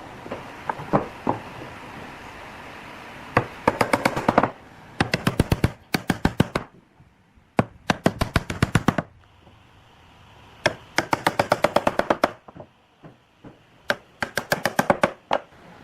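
Rapid sharp knocks, about eight to ten a second, coming in several bursts with short pauses between them.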